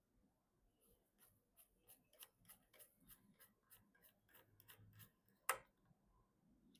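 Faint, quick series of small clicks, about four a second, from PC parts being handled and fitted, then one sharper click about five and a half seconds in.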